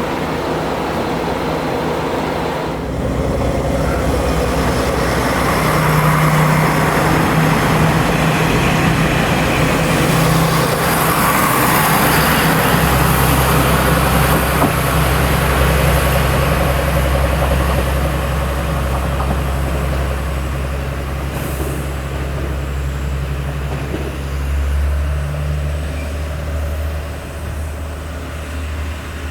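Two-car KiHa 147 diesel railcar set pulling away from the station, its diesel engines running under power with a steady low drone. The engine sound steps up about three seconds in, grows heavier through the middle and eases off toward the end.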